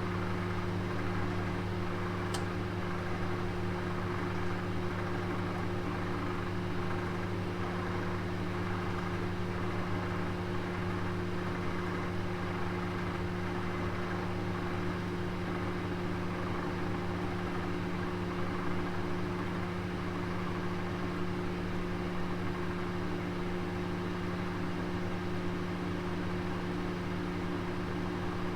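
Oven running with a roast inside: a steady low hum and whir from the oven, with one faint tick about two seconds in.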